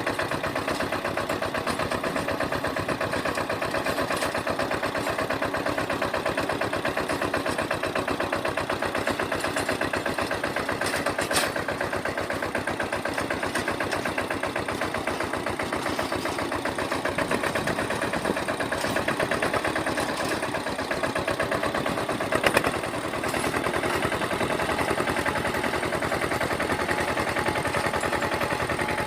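Engine of a sanedo, a motorcycle-based jugaad mini tractor, running steadily with a fast, even putter. There is a sharp click about 11 seconds in and a louder knock about 22 seconds in.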